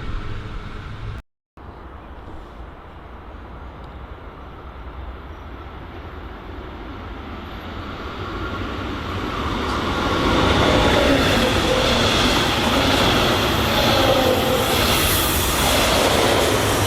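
A train running past on the line, its rail and wheel noise building steadily from faint to loud over about eight seconds, then staying loud, with some high squealing tones from the wheels. The sound cuts out briefly about a second in.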